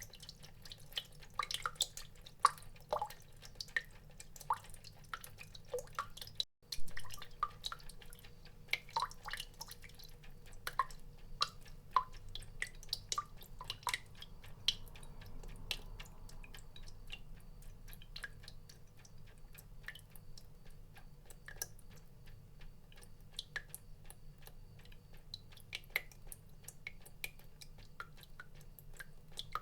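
Water drops falling and plinking irregularly, several a second, some with a short ringing tone, over a faint steady low hum. The sound cuts out for an instant about six seconds in, and the loudest drop follows just after.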